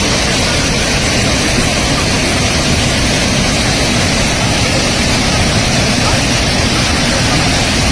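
Loud, steady rush of a large waterfall heard close to its base: a continuous, even noise with no breaks.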